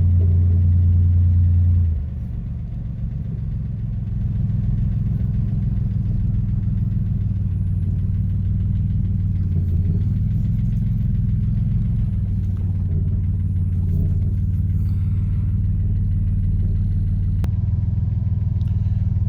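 1984 Oldsmobile 4.3-litre V6 diesel engine running as the car is driven, a steady low drone that drops in level about two seconds in and then holds steady. The exhaust is a bit loud because the car needs a new exhaust system.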